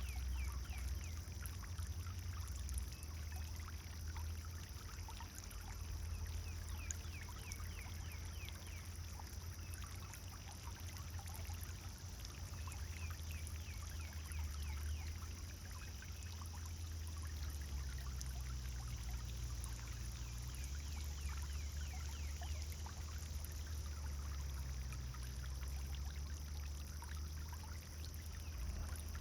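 Pond fountain splashing and trickling steadily over a low, constant rumble. Faint short chirps come and go above it, thickest in the first several seconds.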